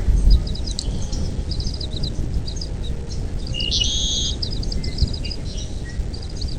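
Birds calling in quick series of short, high chirps, with one longer buzzy call about halfway through, over a steady low rumble of background noise.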